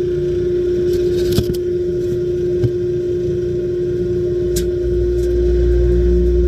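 Glass bead blast cabinet running: a steady motor hum with a hiss of air and media, and a few sharp ticks. A low rumble gets louder about five seconds in.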